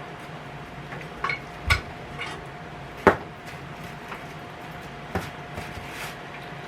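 Clicks and knocks of a Presto electric kettle and its detachable cord being handled while the plug is fitted, about six separate knocks with the loudest about three seconds in.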